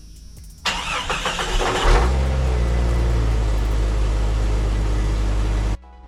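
1996 Jeep Cherokee XJ engine cranking for about a second, catching, and settling into a steady idle; cut off abruptly near the end.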